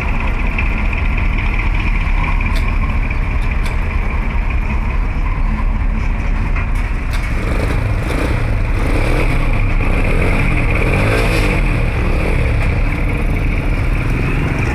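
Truck engine running steadily, with a few faint clicks.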